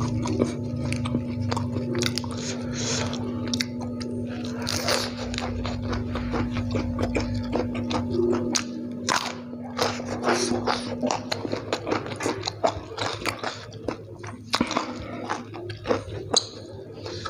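A person biting and chewing raw vegetables, a crisp lettuce leaf and a raw round green eggplant, with many sharp crunches.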